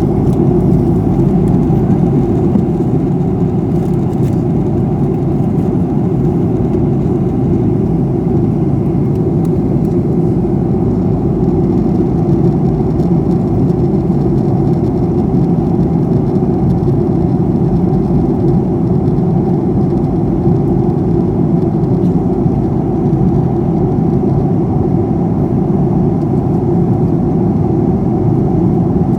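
Steady, loud cabin noise of a Boeing 737-800 in flight, heard from a passenger seat: airflow and the CFM56-7B engines make an even low roar that does not change.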